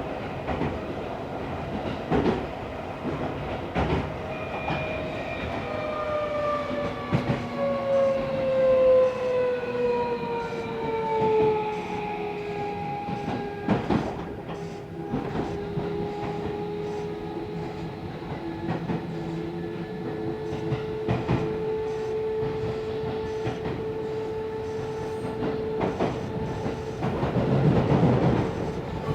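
Tokyo Metro 16000 series train heard from inside the car while running. Its VVVF inverter whine slides down in pitch over about six seconds and then holds a steady tone. The wheels clack over rail joints throughout.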